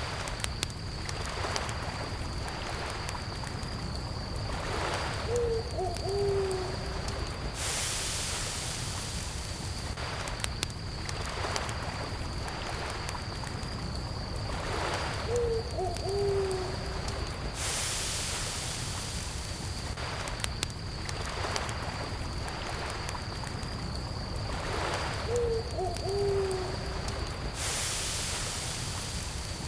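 Campfire crackling with scattered pops over a steady rumble, and crickets trilling steadily. Three times, about ten seconds apart, a bird gives a low two-note hoot, a short note then a longer lower one.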